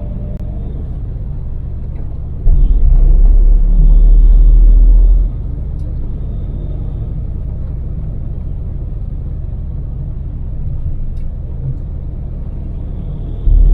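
Cabin sound of a Daewoo Damas microvan at expressway speed: its small LPG-fuelled three-cylinder engine and the road make a steady low rumble. A much louder deep rumble swells for about three seconds a few seconds in, and briefly again at the very end.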